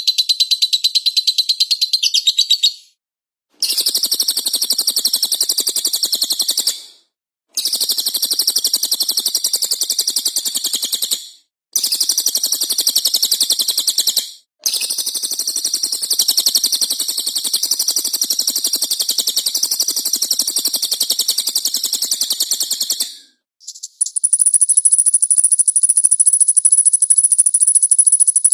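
Songbirds chirping in rapid, continuous bouts, several seconds each with brief breaks between them. About 24 seconds in this gives way to a high, steady, shrill trill.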